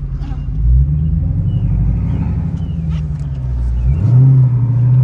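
Supercharged 6.2-litre HEMI V8 of a Dodge Hellcat Redeye, heard from inside the cabin while driving under throttle. The engine note rises about a second in, then rises sharply again around four seconds in and keeps climbing.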